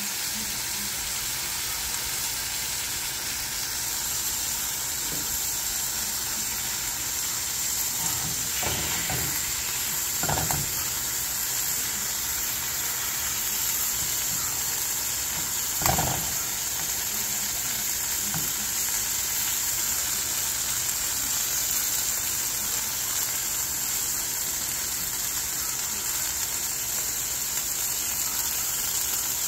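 Burger patty and sliced onions sizzling steadily in a nonstick frying pan. A few short knocks of a spatula against the pan come about 8 to 10 seconds in, and the loudest comes about 16 seconds in.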